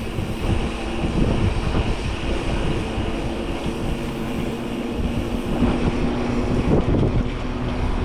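Mountain bike rolling over a dirt trail: tyre and rattle noise with wind on a bike-mounted or helmet microphone, and a steady buzzing tone throughout.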